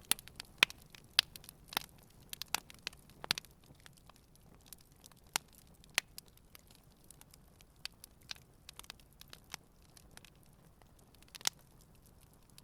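Campfire crackling, with sharp irregular pops over a faint hiss; the pops come thick in the first three seconds, then thin out, with one more sharp pop near the end.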